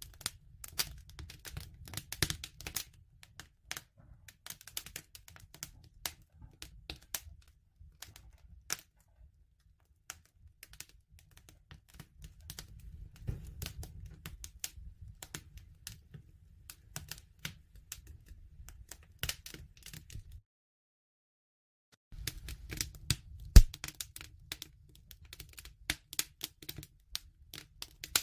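Wood fire crackling, with irregular sharp snaps and pops over a low, steady rumble of the flames. It cuts out for about two seconds about three-quarters of the way through, then resumes with one loud pop.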